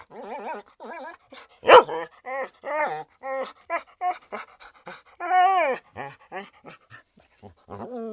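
A dog whining and yelping in a quick run of short, high, wavering calls, with one louder, sharper yelp about two seconds in.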